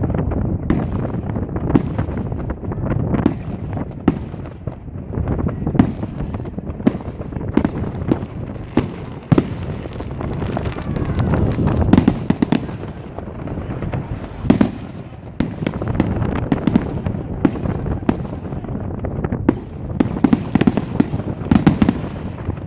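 Fireworks display: aerial shells bursting in quick succession, roughly one or two sharp bangs a second over a continuous rumble, with a denser run of bangs near the end.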